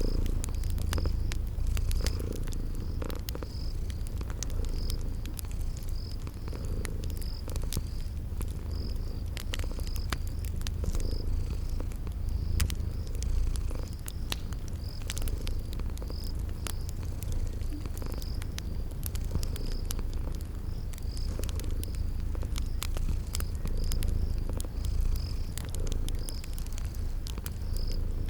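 Cat purring steadily and close, over the irregular crackle and pops of a wood fire, with a cricket chirping in an even rhythm high above.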